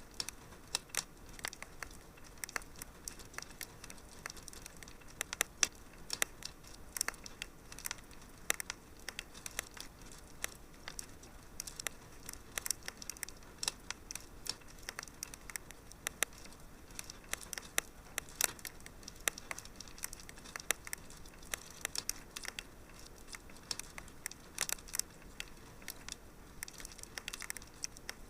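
Wood fire crackling in a fireplace: frequent sharp, irregular pops and snaps over a low hiss.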